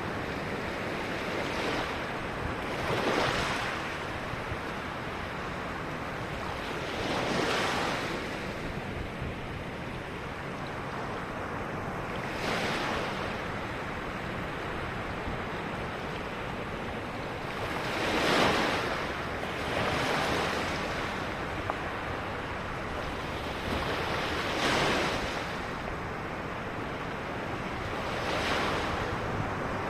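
Ocean waves breaking on a beach: a steady hiss of surf, swelling into a louder rush as a wave comes in, about every four to six seconds.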